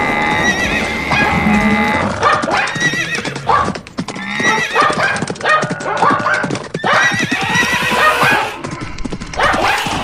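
Stampede sound effect: a dense clatter of galloping hooves, with horses whinnying again and again over it in calls that rise and then fall.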